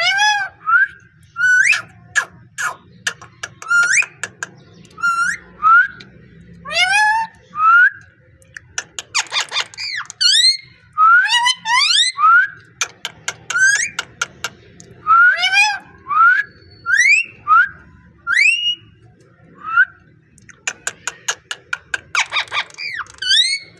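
Pet parrot whistling a series of short notes that sweep quickly upward, mixed with rapid sharp clicks and a couple of harsh, raspy calls about nine seconds in and again near the end.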